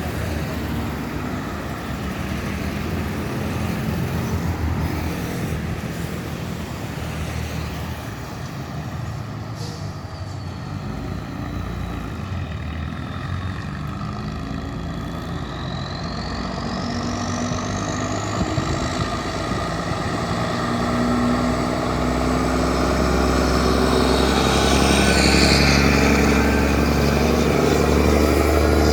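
Modified Scania truck's diesel engine pulling hard through the gears. A high whistle rises in pitch about halfway through, and the engine grows louder toward the end.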